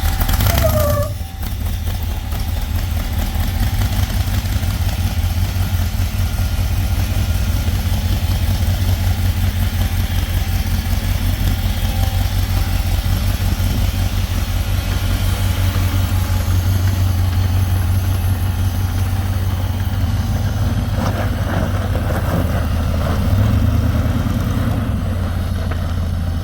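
A mud buggy's freshly swapped-in engine idling steadily, with a slight rise in revs near the end.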